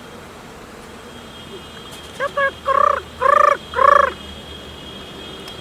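A trapped quail calling close by: five short calls that rise and fall in pitch, two brief ones about two seconds in and then three longer ones.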